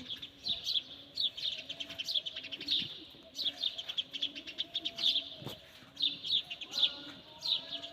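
Small birds chirping in quick, repeated bursts of high notes, with a softer, lower call repeating underneath.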